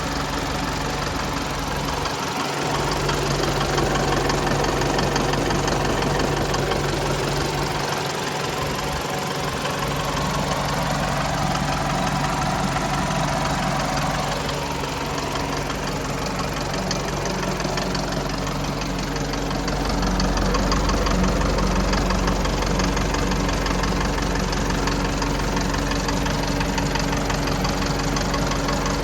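Isuzu 4JJ1 3.0-litre four-cylinder turbodiesel engine idling steadily, with an even low hum that grows slightly louder about two-thirds of the way through.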